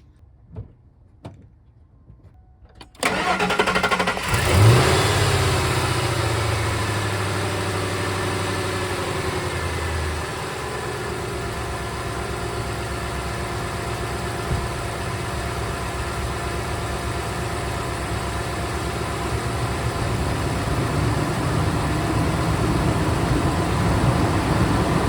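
A 2000 Ford F150's engine cranks and starts about three seconds in, flares up briefly, then holds a fast idle that drops to a lower, steady idle about ten seconds in. The idle is steady after a new coil-on-plug ignition coil was fitted to cure a cylinder 6 misfire (P0306).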